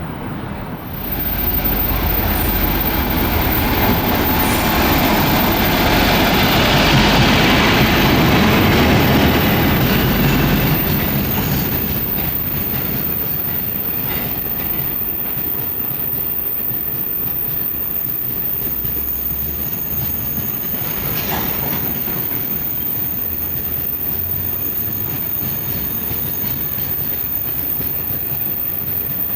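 Freight train rolling through a station, a steady rumble of wagon wheels on the rails. It swells about a second in, is loudest for the next several seconds, then settles to an even run.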